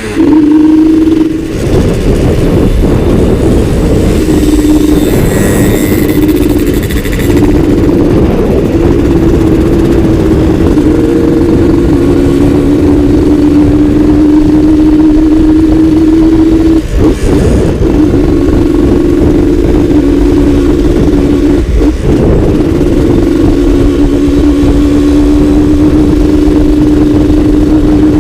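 Suzuki Satria two-stroke motorcycle engine running under way, its note held fairly steady at speed. The note breaks off briefly twice in the latter part.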